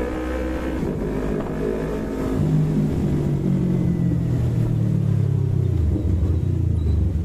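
Yamaha MT-25 parallel-twin engine running under way, heard through a helmet intercom microphone. About two seconds in the engine note grows louder and deeper, then steps down in pitch over the next few seconds.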